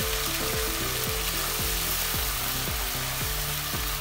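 Ginger-garlic paste and whole spices bubbling and sizzling steadily in hot oil in a kadai, with a splash of water just added, over soft background music.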